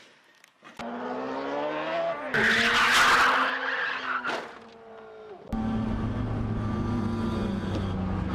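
Car engine revving higher, then a loud burst of skidding tyres lasting about a second as the engine note falls away. About five seconds in the sound cuts suddenly to a steady engine drone.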